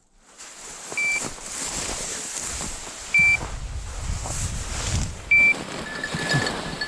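Three short, identical high beeps about two seconds apart, of the kind a bird dog's beeper collar gives, over a steady rushing noise of wind and brush on the microphone.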